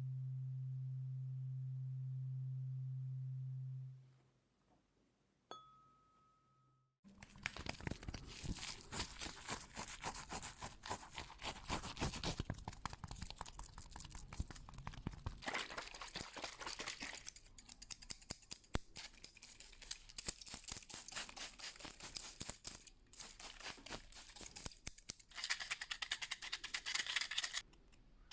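A steady low hum that stops about four seconds in, then a single click. Dense, rapid scratching close to the microphone follows and runs on with a few short breaks.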